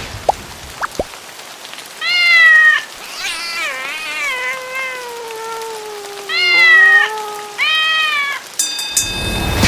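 Cats meowing: three short meows and a long, drawn-out lower yowl that slowly falls in pitch, over a steady patter of rain. Music comes in near the end.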